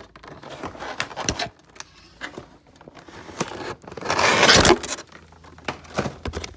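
Cardboard model box being opened by hand: scattered clicks and knocks of the packaging being handled, and a louder scrape lasting nearly a second about four seconds in.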